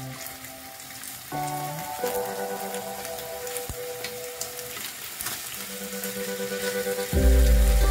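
Chicken thighs frying in oil in a nonstick pan: a steady high sizzle with a few light clicks as the pieces are turned with tongs, under background music that swells louder with heavy bass near the end.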